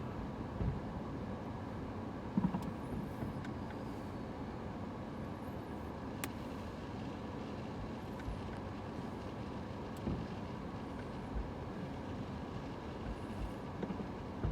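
A few scattered fireworks thuds, the loudest about two seconds in, over a steady low rumble.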